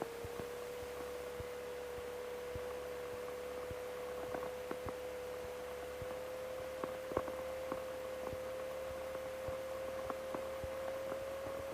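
A steady single pure tone, slowly creeping up a little in pitch, with faint scattered clicks underneath.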